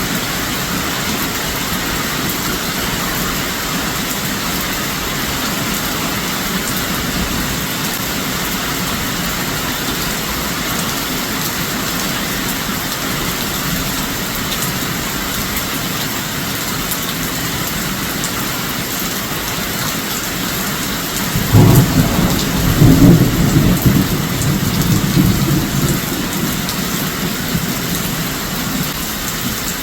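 Steady heavy rain of a hurricane downpour. About two-thirds of the way in, a loud low rumble of thunder breaks in suddenly and dies away over several seconds.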